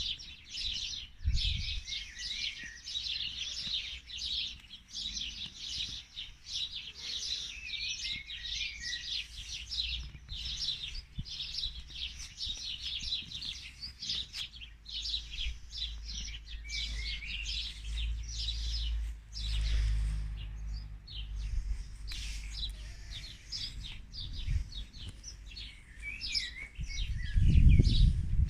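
Many small birds chirping and twittering in a dense, continuous chorus of quick high notes. Beneath it is a low rumble that swells about two-thirds of the way through and is loudest near the end.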